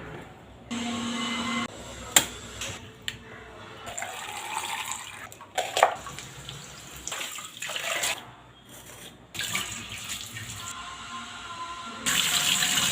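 Water running and splashing in a kitchen sink, with knocks and clatter from handling things, in short changing bursts. A tap runs hard near the end.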